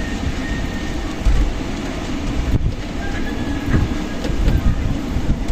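Strong desert wind blowing in gusts and buffeting the microphone with a deep rumble, faint thin high whistles coming and going.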